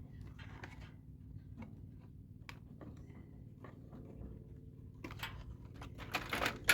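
Scattered light clicks and rattles of metal parts and wires being handled inside a microwave oven casing during dismantling, building to a louder burst of clattering near the end, over a steady low hum.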